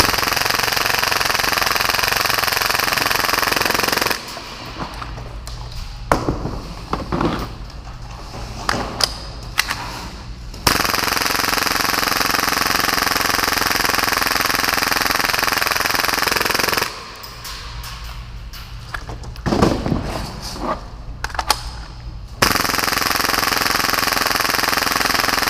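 Full-auto airsoft Hi-Capa pistol firing long continuous bursts at about 30 rounds a second. Three bursts are heard, with quieter gaps of clicking and handling noises between them.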